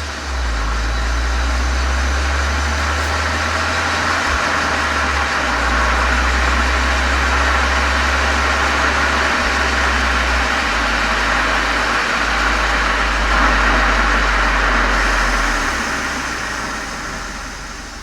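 Exhaust of a Golf 7 GTI's turbocharged 2.0-litre four-cylinder through a Cox aftermarket muffler, heard from a microphone outside at the rear of the car. It runs steadily with a deep low rumble under a broad rushing noise, then dies down over the last few seconds.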